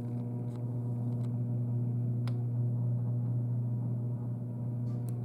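A steady low hum at one unchanging pitch, with a few faint clicks over it.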